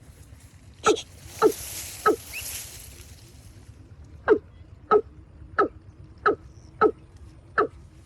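About nine short, sharp animal calls, roughly one every half second, with a pause of a second or two after the third. A faint hiss runs through the pause.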